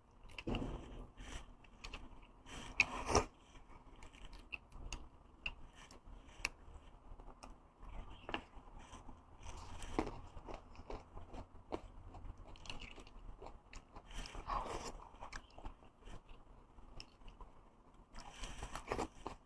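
Close-miked mukbang eating of beef bone marrow and fatty meat: chewing and biting with irregular wet mouth clicks, and a few louder bites through the stretch.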